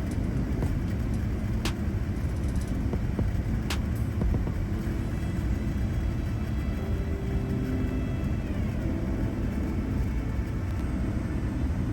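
Steady low rumble of an airliner cabin as a Boeing 787-10 comes in to land, with two sharp clicks in the first few seconds.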